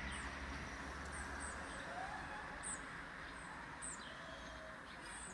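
A small bird chirping, short high chirps repeated every half second or so, over a steady outdoor hiss and low rumble.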